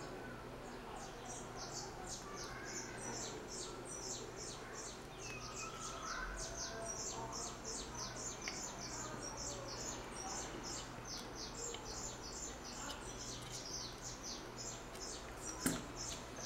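Small birds chirping in the background: a dense, continuous run of short, high, downward-sweeping chirps, about four a second. A single faint knock comes near the end.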